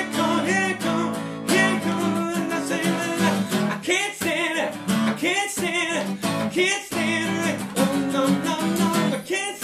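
Acoustic guitar strumming chords in a steady rhythm, with a wordless singing voice over it.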